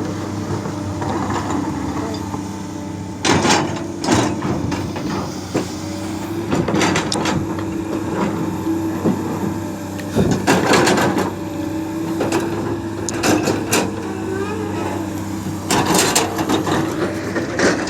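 Hydraulic excavator's diesel engine running steadily while it digs and loads soil. Its bucket clanks and scrapes against the soil several times, about a second or so each.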